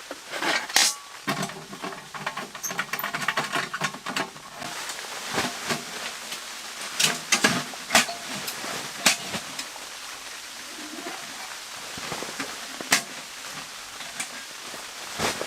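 Irregular knocks and clicks over a steady hiss, denser for the first few seconds.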